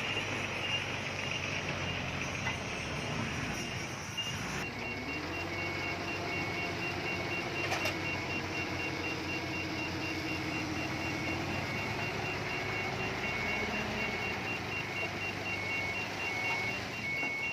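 Heavy diesel earthmoving machinery running, with a reversing alarm beeping at an even pace over it; an engine note rises about five seconds in and holds for several seconds.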